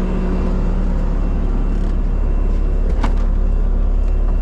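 Bobcat skid steer's engine running steadily at a constant speed after warming up, with one sharp click about three seconds in.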